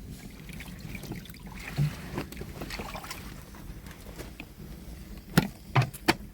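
A few sharp knocks over a steady low rumble: one about two seconds in, and three close together near the end.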